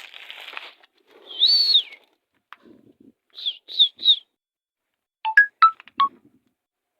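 High whistled calls: one arched whistle, then three short quick notes falling in pitch, then a few sharp clicky chirps near the end.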